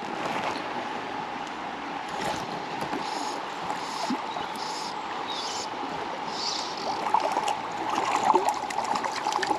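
Steady rush of river water flowing, getting busier and louder near the end.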